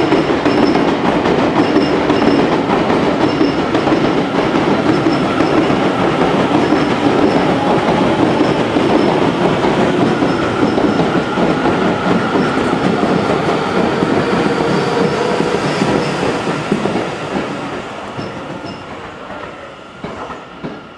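Seibu 30000 series electric commuter train pulling out of the station and picking up speed, its wheels clattering over rail joints and points under a steady whine. The sound fades as the train moves away over the last few seconds.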